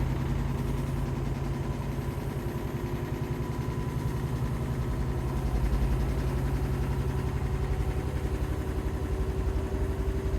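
Bosch washing machine running with a steady low hum and a fast, even pulsing vibration, the machine shaking as its drum turns. This vibration is the fault the owner is showing.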